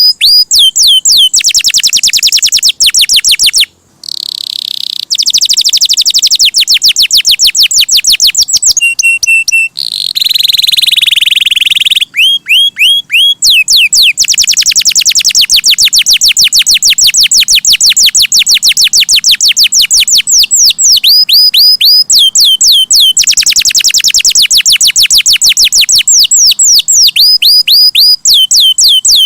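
Domestic canary singing a loud, continuous song of fast, high-pitched trills made of rapidly repeated downward-sweeping notes, with a few brief pauses.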